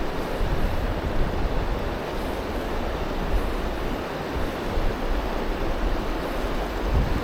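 Steady rushing of river water, with low wind rumble buffeting the microphone.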